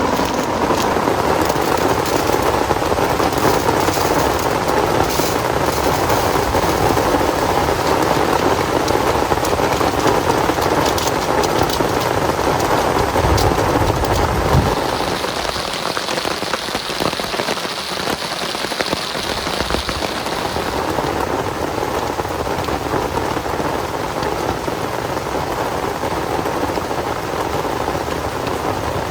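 Heavy rain falling steadily as a dense hiss. About halfway through there is a brief low rumble, after which the rain turns a little quieter.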